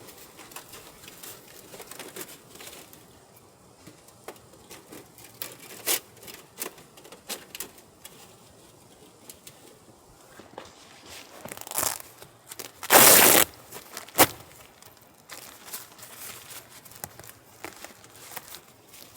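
Crinkling, rustling handling noises with scattered small clicks, and one loud rustle lasting about half a second, about thirteen seconds in.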